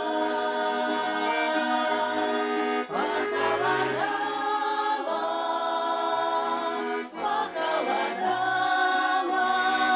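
Accordion playing the melody of a Russian folk song with sustained chords, between the sung lines, with the women's ensemble voices coming in briefly in places.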